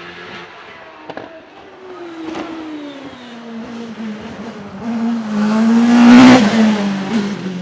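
Hill-climb race car's engine under power, its pitch falling over the first few seconds with a couple of sharp cracks, then the car comes past loudest about six seconds in with a rush of noise before easing away.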